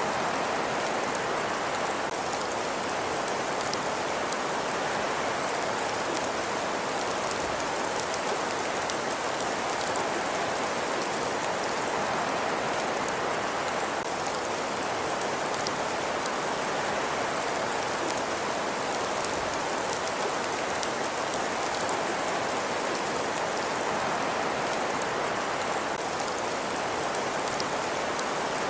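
Crackling fireplace ambience: a steady hiss with faint, scattered small pops.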